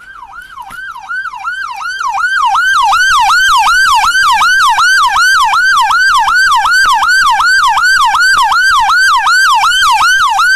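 Police car siren in rapid yelp mode, a wailing tone sweeping up and down about three to four times a second. It grows much louder over the first two seconds as the car pulls up close, then stays very loud.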